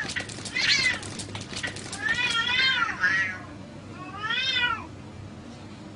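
Cat meowing: a short meow about a second in, a long wavering meow from about two seconds, and another meow rising and falling in pitch near the middle. Sharp clicks or scuffs over the first two seconds.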